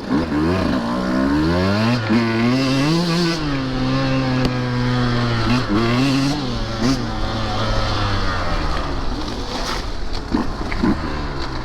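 2023 Husqvarna TE150 two-stroke dirt bike engine revving while being ridden: the pitch climbs, holds steady for a couple of seconds, dips and climbs again, then falls back to a lower steady run. A few short knocks come near the end.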